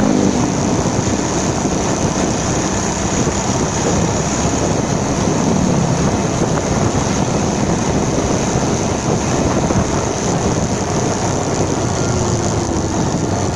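Motorcycle underway: a steady, loud rush of engine and wind noise over the microphone, with the engine note shifting slightly in pitch now and then.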